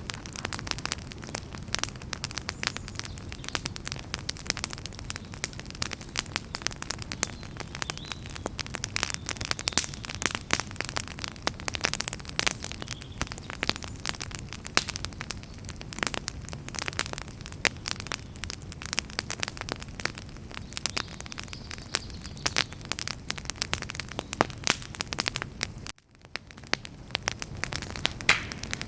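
Wood fire crackling, with many sharp pops and snaps over a steady low rumble. Near the end the sound cuts out briefly and then fades back in.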